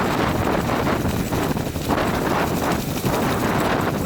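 Wind buffeting the camera microphone: a loud, steady rush with small irregular dips.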